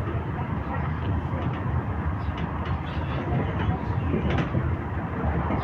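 Tram running along its rails: a steady low rumble with a few faint clicks.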